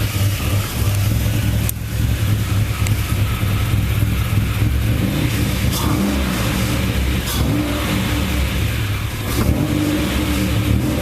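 Chevrolet Cavalier engine running rich after a cold start, given short throttle blips over its idle.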